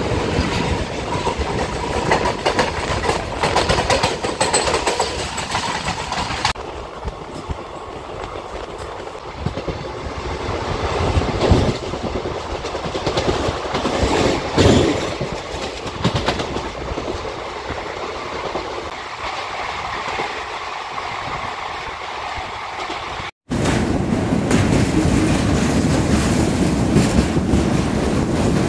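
Express passenger train running along the line, its wheels clattering over the rail joints under a steady rushing noise. The sound changes abruptly twice, about six seconds in and again near the end after a brief dropout.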